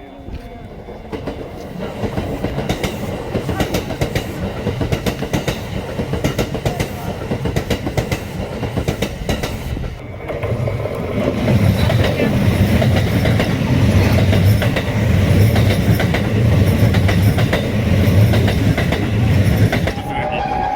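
Sangi Railway Hokusei Line narrow-gauge electric train running, its wheels clicking rhythmically over rail joints. About halfway through it gets louder, with a pulsing low rumble.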